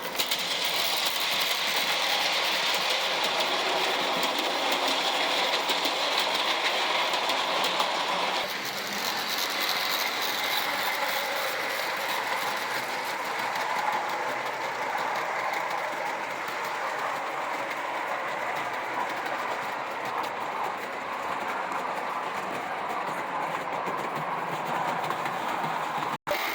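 Vintage brass-and-sheet-metal O scale model steam locomotive, an Acme B&O P5 Pacific, running on three-rail track with its cars: a steady mechanical running noise of wheels on rails and the drive. It gets somewhat quieter about eight seconds in.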